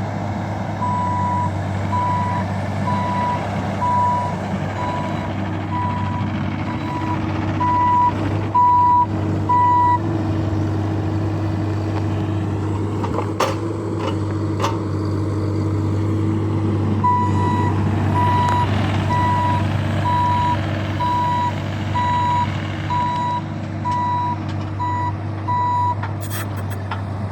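Bobcat E26 mini excavator's travel alarm beeping about one and a half times a second over its steady diesel engine, the sign that the machine is moving on its tracks. The beeping stops for several seconds in the middle, with a few sharp knocks, then starts again.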